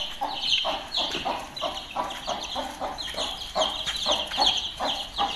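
Chickens: a steady stream of short clucks with many thin, high peeps over them, the sound of a hen with chicks.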